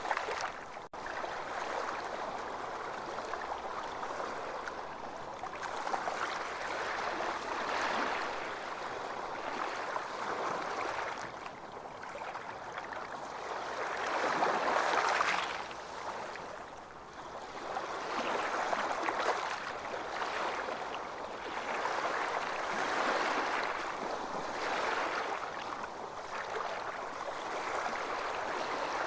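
Ocean surf: waves breaking and washing on a beach, swelling and ebbing every few seconds, the biggest swell about halfway through. A brief dropout in the sound about a second in.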